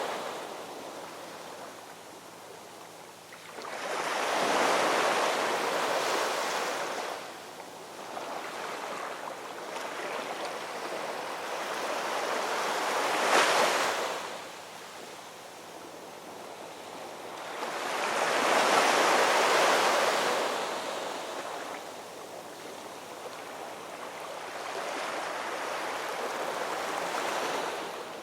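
Ocean waves breaking and washing up a shore, rising in four surges and easing back between them, one surge with a sharper crash about halfway through.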